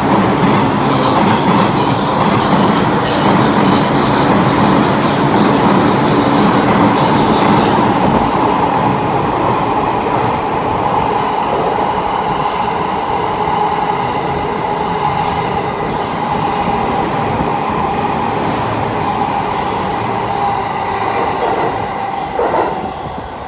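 Electric train passing through a station platform without stopping: a long, loud, steady run of wheel and rail noise with steady tones in it, easing off near the end as the train clears the platform.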